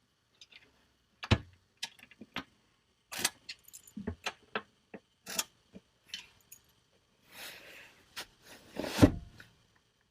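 Keys jangling and clicking in the locks of a steel under-seat storage unit with aluminium lids, a series of separate metallic clicks and knocks. The loudest knock comes about nine seconds in.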